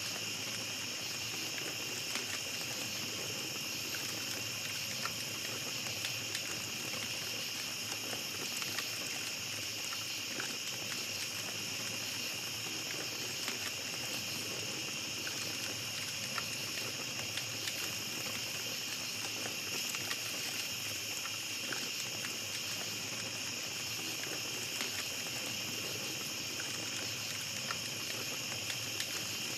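Campfire crackling with small scattered pops over a steady high-pitched chorus of night insects.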